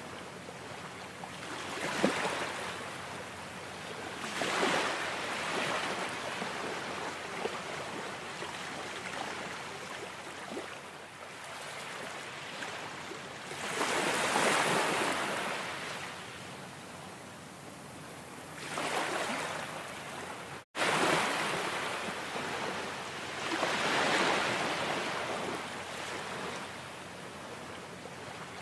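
Ocean surf: a steady wash of water with waves swelling and breaking every few seconds, the loudest about halfway through. The sound cuts out for an instant about two-thirds of the way in.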